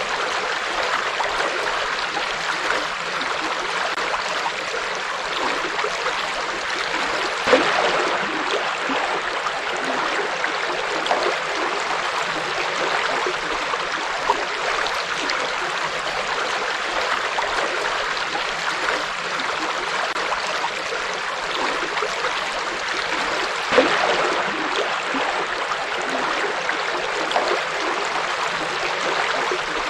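River water flowing steadily, with two brief louder splashes, about a quarter of the way in and again about four-fifths of the way through.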